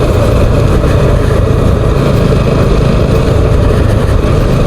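Motorcycle running steadily along the road with a constant rush of wind and road noise heard from the rider's position.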